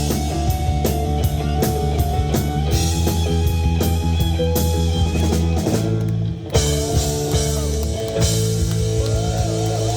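Live rock band playing an instrumental passage: electric guitar and bass over a drum kit keeping a steady beat. The band breaks off briefly about six and a half seconds in, then comes back in with a hit.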